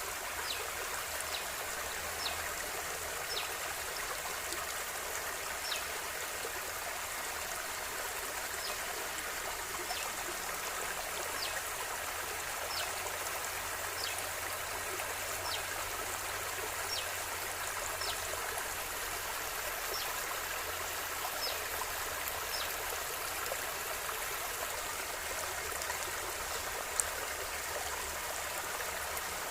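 River water flowing steadily, an even rushing hiss with small, short high plinks of water roughly once a second, and one brief louder click near the end.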